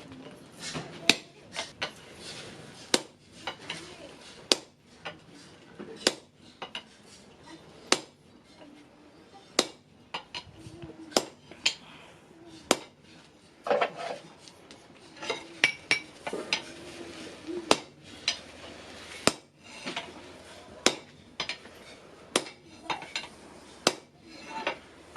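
Hand hammer striking steel on an anvil: a long run of sharp, irregular blows with a metallic ring, roughly one a second.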